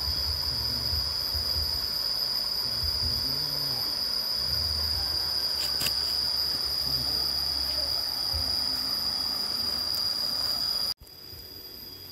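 Insects chirring in one steady, unbroken high-pitched note over a low rumble. Near the end the sound drops suddenly, and the chirring carries on more faintly.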